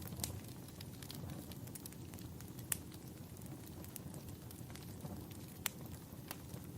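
Wood fire burning: a steady low rumble with a few sharp, isolated pops and crackles of burning wood scattered through it.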